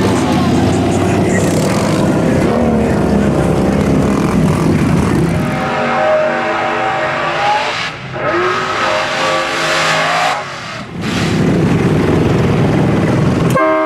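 Loud mud-truck engines running and revving. In the second half there are two held high revs of about two seconds each, the second cutting off about ten seconds in.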